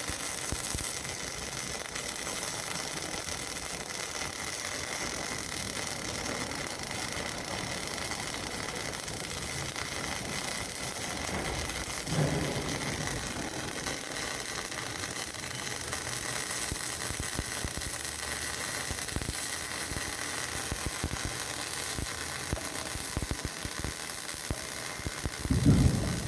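MIG welding arc on steel pipe, crackling and hissing steadily, with two brief louder bumps, one about halfway and one near the end.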